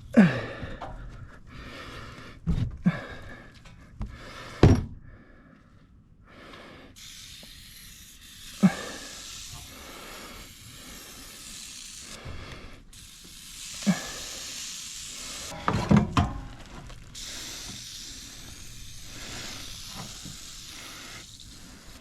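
Aerosol can of Easy-Off foam cleaner spraying onto an AC evaporator coil in long hissing bursts, mostly through the second half, with several sharp knocks and thumps in between.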